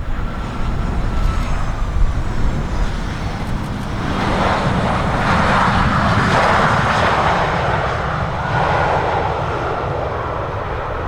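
Airliner's engines on landing approach passing close, growing louder about four seconds in and easing off slightly near the end, over the low rumble of strong wind on the microphone.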